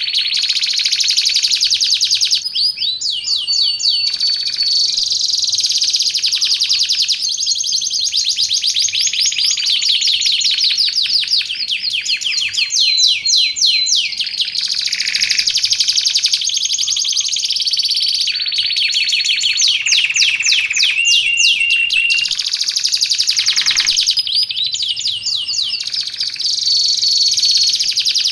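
Domestic canary singing continuously in fast, high rolling trills of rapidly repeated notes, with a few held whistled notes in between.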